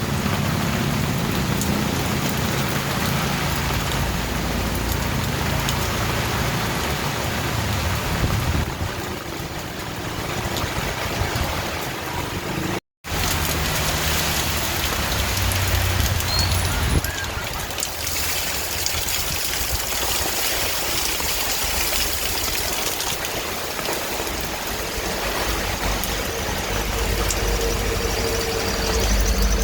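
Steady rain, an even hiss, with a low rumble underneath at times. The sound cuts out completely for a moment a little before halfway through.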